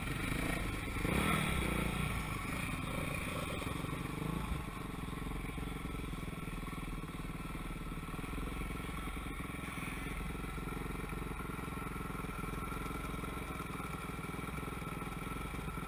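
Motocross motorcycle engines running, louder in the first four seconds as the sound fades, then steady and further off.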